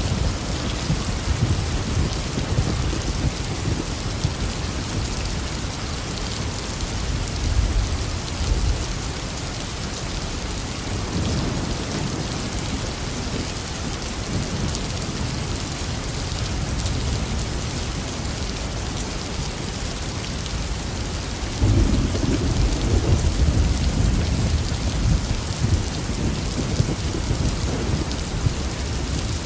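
Heavy rain falling steadily, with rumbles of thunder in the first several seconds and another roll of thunder that breaks in suddenly about three-quarters of the way through.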